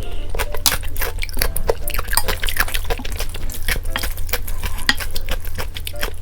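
A spoon stirring and scooping soupy noodles in a bowl, making a fast run of wet clicks and clinks over a steady low hum.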